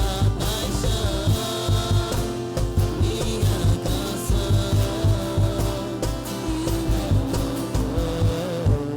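A church worship band playing a song, with a steady drum and bass beat under sustained chords.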